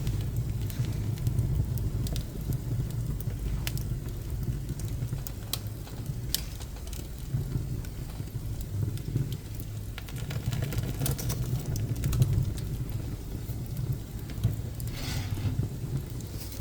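Pine offcuts burning in a wood stove: a steady low rumble of the fire, with scattered sharp crackles and pops a few seconds apart.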